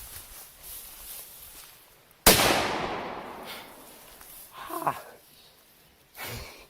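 An M-80 firecracker goes off with a single sharp bang about two seconds in, and its report echoes and dies away over the next couple of seconds.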